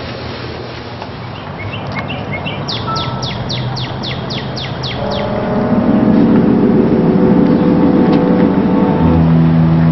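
A small songbird singing a quick run of about ten falling chirps, roughly four a second. About five seconds in, a louder, steadier sound with held low tones takes over.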